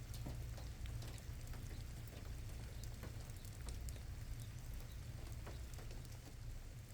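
Rain falling, with scattered single drops ticking irregularly over a low steady rumble.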